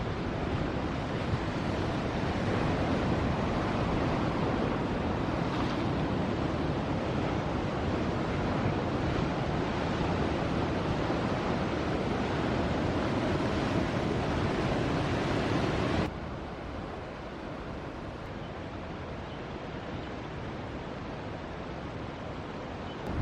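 Ocean surf breaking and rushing, with wind buffeting the microphone. The level drops suddenly about two-thirds of the way through and stays lower after.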